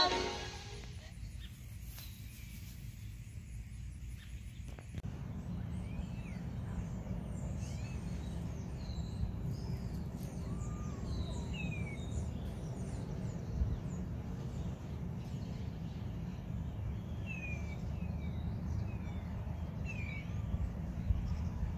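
Outdoor ambience: birds giving scattered short chirps that slide downward, over a steady low rumble that comes in about five seconds in.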